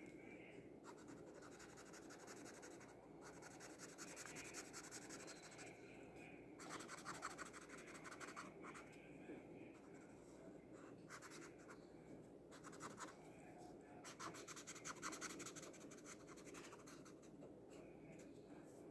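Acrylic paint marker nib scratching faintly in a series of drawing strokes, each from under a second to about two seconds long, with short pauses between.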